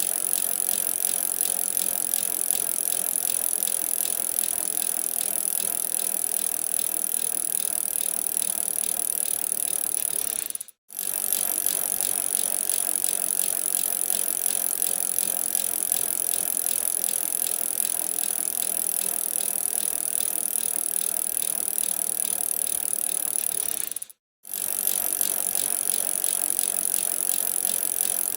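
Bicycle being ridden: a steady rattle and clatter from the bike, with road and tyre noise. The sound drops out to silence twice, briefly.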